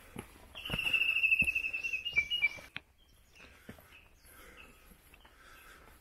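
A bird sings one rapid, high trill lasting about two seconds, ending in a couple of slightly lower notes. Footsteps thud softly on a dirt forest path throughout.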